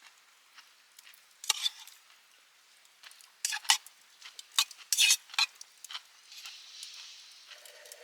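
Metal utensils scraping and clinking against a pan, in a few short sharp strokes, with a faint sizzle underneath.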